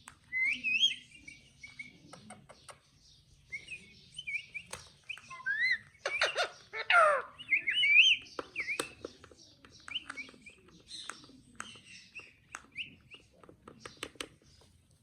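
Parrot chirping and whistling in short notes that glide up and down, with one louder, longer call that slides down in pitch about six to seven seconds in. Many short sharp clicks in between.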